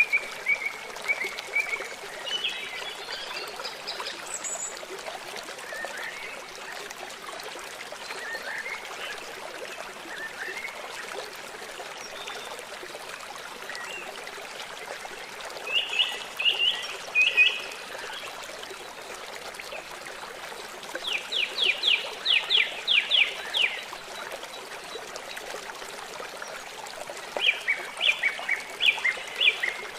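Songbirds chirping and singing over a steady trickle of running water. There are clusters of sharp chirps about half way in and again near the end, and a fast run of about eight down-slurred notes about two-thirds of the way through.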